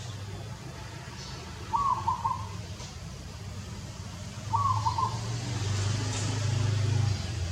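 A bird calling a short cooing phrase, repeated about every three seconds. A low rumble swells under it for a few seconds in the second half.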